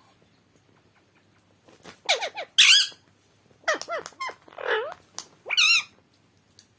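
Pet parrot giving a run of short, squeaky calls with wavering pitch, in several bursts from about two seconds in, the loudest around the middle.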